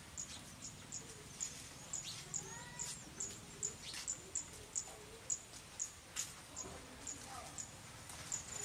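Birds calling in light rain: a short, high chirp repeated about two or three times a second, with lower whistled calls that rise and fall, over the soft patter of rain.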